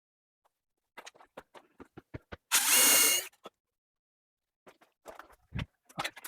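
Power drill spinning dryer-vent cleaning rods in one short whining burst about two and a half seconds in. Scattered clicks and knocks from the rods before and after it.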